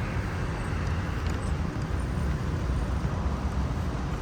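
Wind buffeting the microphone outdoors: a steady low rumble that rises and falls, with no distinct events.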